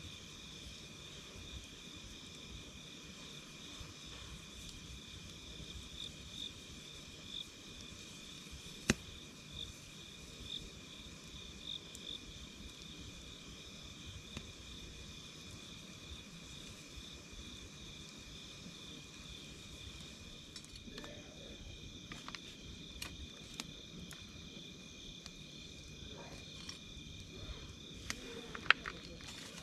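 Night insects chirping steadily: a fast pulsing trill and a second, steady high-pitched call. A wood campfire crackles over them with sharp pops, one loud pop about nine seconds in and a flurry of pops in the last third.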